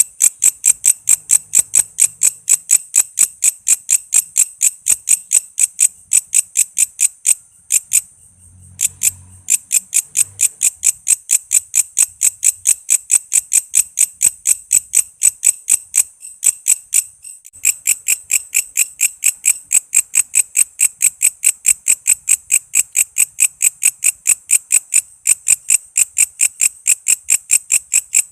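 Walang kece insect calling: a fast, steady train of sharp, high-pitched chirps, about five a second, that falters briefly twice before running on.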